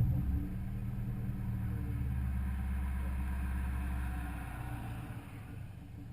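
Honda B16A2 four-cylinder VTEC engine idling through a Skunk2 Alpha header, Megapower R exhaust and decat pipe, settling back to a steady idle as a rev dies away at the start. The idle grows quieter about four and a half seconds in.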